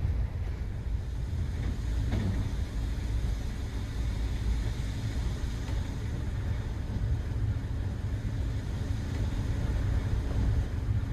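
Steady low rumble of a moving night-train couchette car heard from inside the compartment: the running noise of wheels and bogies on the track.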